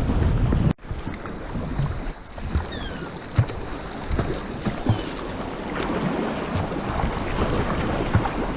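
Sea water sloshing and splashing around a kayak, with wind buffeting the microphone and occasional knocks. The sound cuts out abruptly for a moment just under a second in, and a few short falling whistles come a couple of seconds later.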